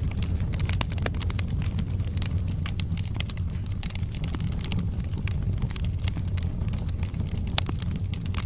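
Wood fire burning in a fireplace: logs crackling with many quick irregular pops over a steady low rumble, one sharper pop near the end.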